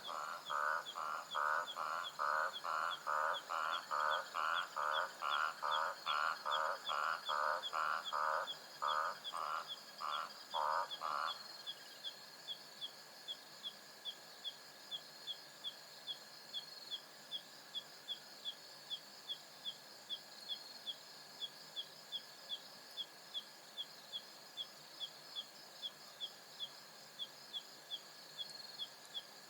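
Night savanna ambience. An animal gives a loud call over and over, about two or three times a second, and stops about eleven seconds in. Under it, high chirps repeat about twice a second and insects trill steadily.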